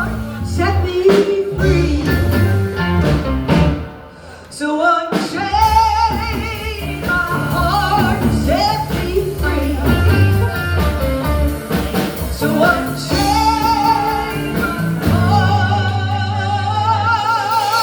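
Live blues band with a singer: vibrato vocal lines over bass and guitar, with a short break about four seconds in.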